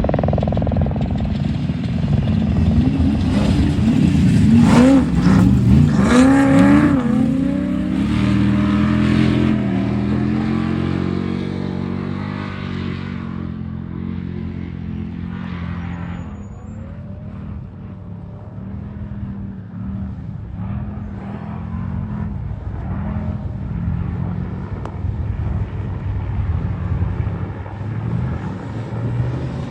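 Off-road race vehicle's engine revving hard as it passes close by, loudest about five to seven seconds in, its pitch then falling as it moves off, leaving a quieter engine sound in the distance.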